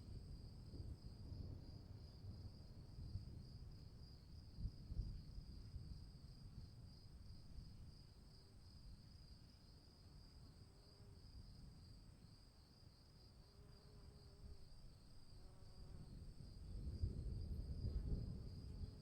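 Insects chirring steadily in a fast, even pulse in a forest night ambience, over a faint low rumble that swells near the end.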